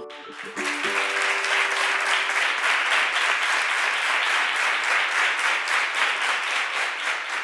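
Applause from many hands clapping, starting about half a second in and keeping on steadily. The last notes of plucked-string music die away under it in the first couple of seconds.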